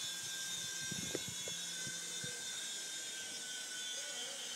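Skytech M35 infrared remote-control toy helicopter's small electric motors and rotors whirring steadily with a high whine, cutting off sharply at the end.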